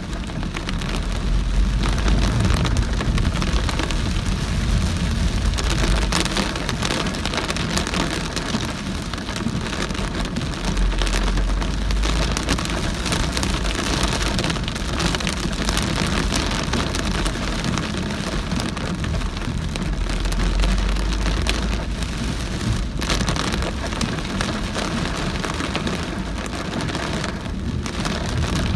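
Very heavy rain on a car driving through it, with tyre and road noise from the flooded road. A deep low rumble swells up three times.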